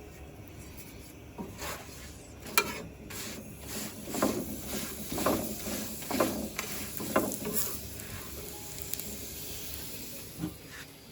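Scraping or stirring strokes, about one a second for a few seconds, after a sharp clink.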